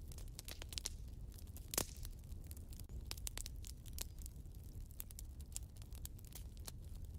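Wood fire burning in a fireplace, crackling and popping irregularly over a steady low rumble, with one louder pop a little under two seconds in.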